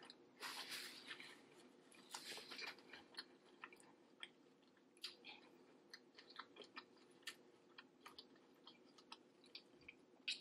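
Close-miked chewing with wet mouth clicks: two louder bursts of chewing in the first three seconds, then a run of short, sharp smacking clicks, over a faint steady hum.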